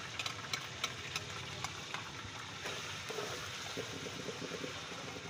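Chicken and onions frying in a pot over a wood fire: a steady sizzle with sharp crackles and pops in the first two seconds as ginger-garlic-green chilli paste goes into the hot oil, then quieter as it is stirred with a ladle.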